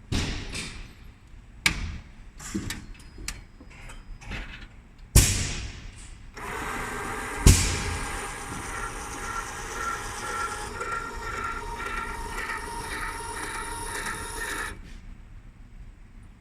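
Knocks and clatter, with a loud thump about five seconds in, then the electric motor of a fire truck's remote-controlled water cannon whirring steadily for about eight seconds as it swings the nozzle back around, stopping suddenly.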